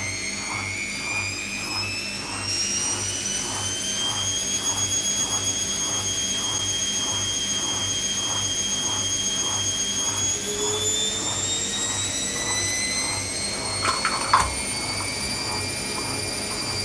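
Zanussi ZKN7120L washing machine spinning up: the motor's whine climbs in pitch, holds, then climbs again to a higher steady speed, with an even pulsing from the turning drum about two to three times a second. A short knock sounds about fourteen seconds in.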